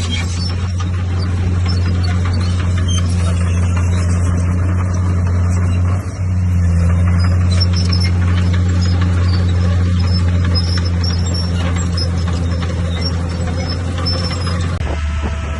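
Bulldozer's heavy diesel engine running steadily under load, with a brief dip about six seconds in and a change in engine note near the end.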